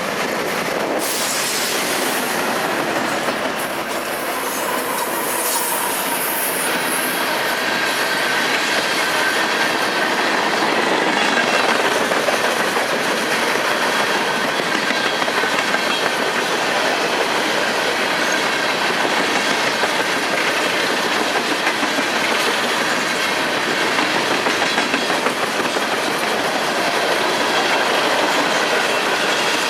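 Freight train cars rolling past, wheels clicking over rail joints, with a faint high squeal of wheels on the rail.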